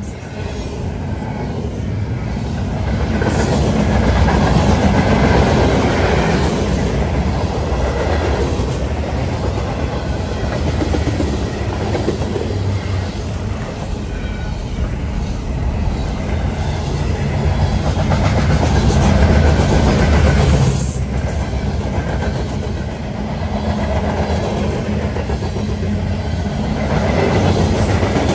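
Loaded freight train cars rolling past close by: double-stack intermodal well cars, then covered hoppers and autoracks. Steel wheels on the rails make a steady heavy rumble with clickety-clack, swelling louder a few times as cars go by.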